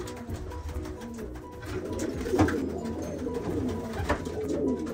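Racing pigeons cooing in a loft, several low coos overlapping continuously, with a couple of sharp knocks about halfway through and near the end.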